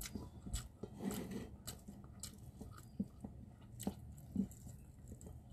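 A person chewing with her mouth close to the microphone while eating by hand, with irregular wet smacks and small crunches. The food is rice with fried salted fish and spicy sambal.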